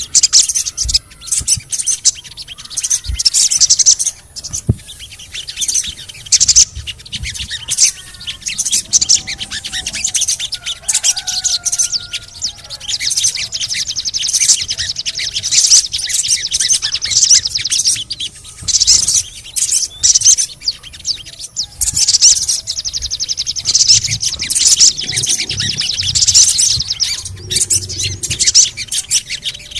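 Sogon bird singing continuously: rapid, high-pitched chirps, and cret-cret chatter broken up by fast rattling trills. It is a lure call ('pancingan') meant to set other sogon birds singing.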